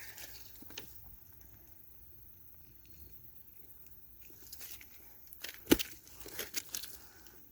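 Quiet rustling and handling noises with scattered clicks, and one sharp knock a little before six seconds in.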